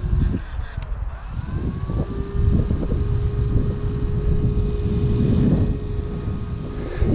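Electric motor and propeller of an FMS Beaver 2000 mm RC model plane whining in flight. The whine drops away briefly after a moment as the throttle is eased, then rises back to a steady pitch. Strong gusty wind buffets the microphone throughout.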